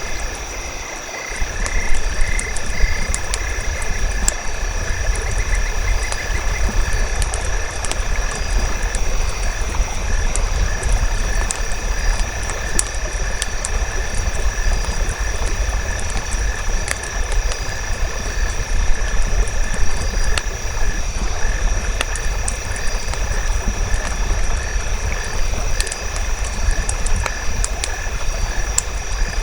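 Campfire crackling with scattered sharp pops over a low steady rumble, set against a continuous nature chorus of steady high-pitched calls. A rapid pulsing call runs for the first few seconds.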